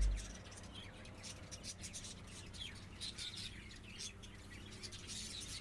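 Small birds chirping: many short, high chirps overlapping in a quick scatter, faint. Music cuts off right at the start.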